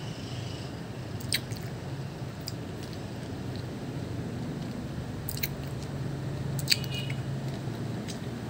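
Someone chewing juicy pomelo pulp close to the microphone: soft squishing with a few sharp mouth clicks, the loudest about two-thirds of the way through, over a steady low hum.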